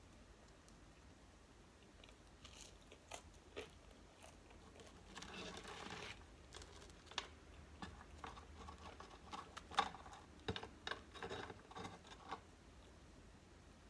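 Close-miked eating: crunchy bites and chewing with wet mouth clicks, a few scattered at first, then a brief rustle about five seconds in, and a denser run of crunches in the second half.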